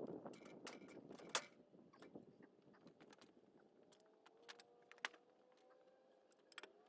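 Near silence, broken by scattered faint clicks and light knocks, the clearest about a second and a half in and at about five seconds.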